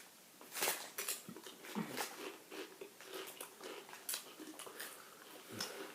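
Pringles crisps being bitten and chewed: a few sharp crunches with quieter chewing crackle between them.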